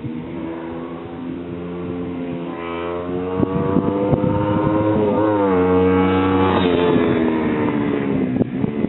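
1978 Honda CB125 twin, a four-stroke parallel twin, revving up under acceleration, getting louder over the first few seconds. Its pitch climbs steadily, drops sharply about five seconds in as at an upshift, then climbs again before easing off near the end.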